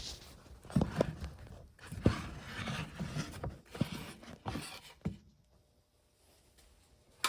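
Irregular knocks, clicks and light scrapes of hands handling a drill bit and bench grinder, ending in a couple of seconds of near quiet and a single sharp click.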